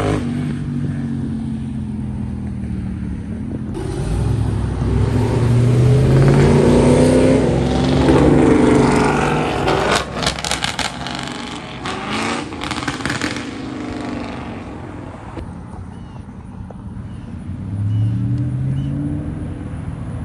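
Vehicle engines driving by, rising and falling in pitch as they speed up and ease off, with a rapid crackle of pops and rattles about ten seconds in and another engine speeding up near the end.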